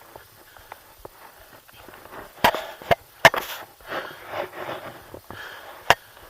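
A climber breathing hard in short bursts, with four sharp clicks of climbing gear, three close together about two and a half seconds in and one near the end.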